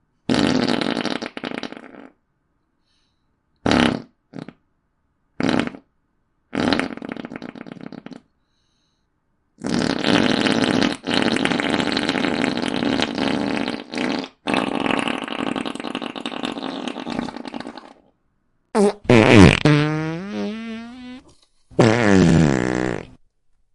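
Comic fart sound effects played one after another with short gaps. Several short ones come first, then a long drawn-out one lasting about eight seconds with a couple of brief breaks. Next is a more tonal one whose pitch wavers, and last a shorter one.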